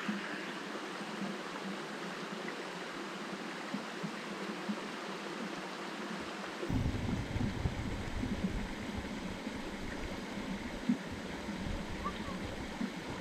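Steady rushing of a flowing river. About seven seconds in, an irregular low rumbling joins it.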